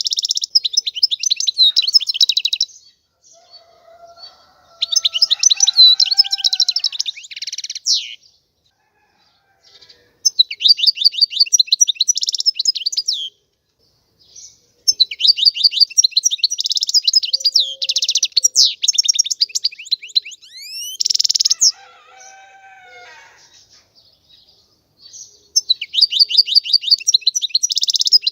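European goldfinch singing: rapid, twittering, trilling phrases in about five bouts, with short pauses between them.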